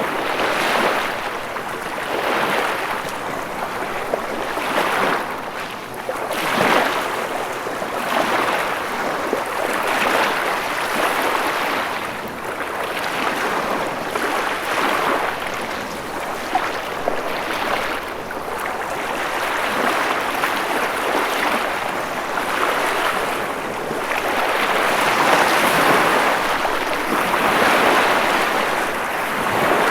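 Ocean waves surging and washing onto the shore in a continuous rush that swells and eases every few seconds.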